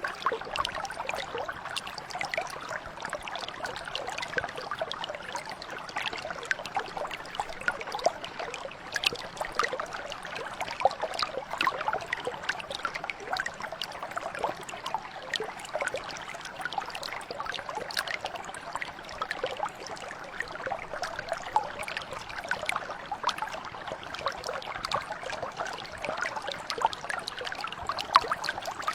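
Mountain brook flowing steadily: an even babble of trickling water with many small splashes.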